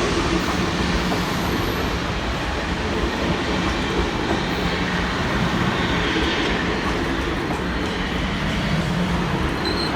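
Passenger train rolling along the track, with steady wheel-on-rail noise that holds without a break.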